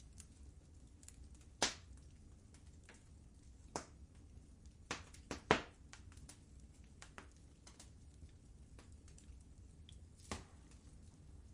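Wood fire crackling in a fireplace: irregular sharp pops and snaps over a low steady rumble, the loudest pops about a second and a half in, around five seconds in and near the end.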